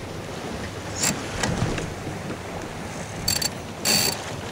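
Wind and water noise aboard a small sailboat under sail, with a few short, sharp bursts of noise about a second in and near the end.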